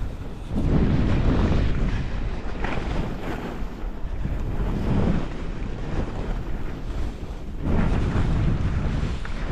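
Wind rushing over a GoPro's microphone and skis hissing on groomed snow during a downhill run. The noise swells three times, at about one, five and eight seconds in.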